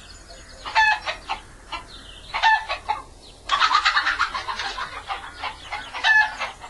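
Chickens clucking: short calls about a second in, two and a half seconds in and six seconds in, with a longer run of cackling in the middle.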